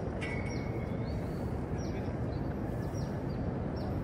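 Small birds calling from the surrounding trees: short, falling high chirps a few times a second, with one held whistle near the start, over a steady low background rumble.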